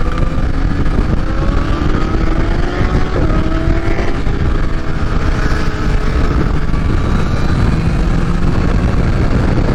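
Supercharged Kawasaki H2 engine pulling hard, its pitch rising over the first three seconds, breaking at an upshift about three seconds in and climbing again before it settles to a steadier run. Heavy wind rush on the microphone runs beneath it.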